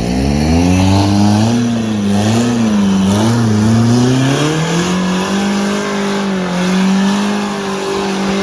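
Off-road 4x4 vehicle engine revving hard. The revs climb quickly at the start, rise and fall for a few seconds, then hold high and steady under load.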